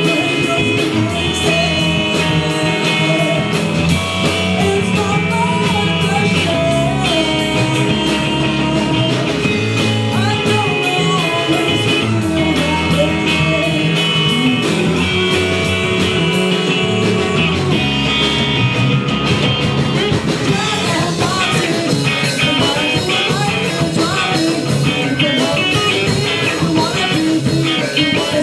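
Live rock band playing loud, steady guitar-driven rock with singing. Near the last third the sound turns to choppier, rhythmic guitar strokes.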